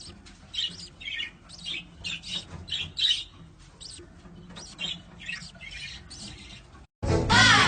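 A pet bird giving a rapid string of short, high chirps and squawks. Just before the end the sound cuts off and loud music begins.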